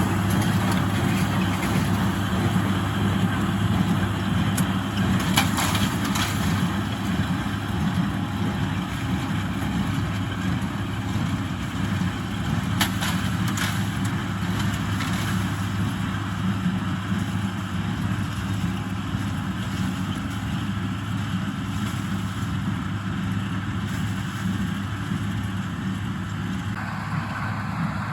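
International Harvester 886 tractor's six-cylinder diesel running steadily under load while pulling a John Deere 348 square baler, with the baler's mechanism running along. A few brief knocks come through a fifth and about halfway in.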